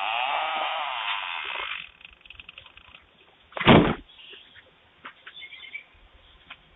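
A crow trapped inside a trash can: a harsh, dense noise for about the first two seconds, then a single loud thump nearly four seconds in, with faint knocks and scratches after it.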